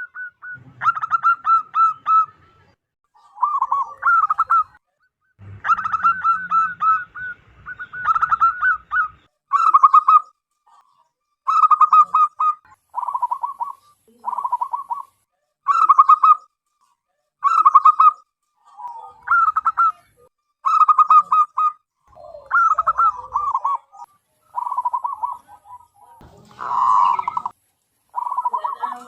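Zebra dove (perkutut) cooing: short phrases of rapid pulsed coos, repeated roughly every two seconds, with a noisier, rougher call about 27 seconds in.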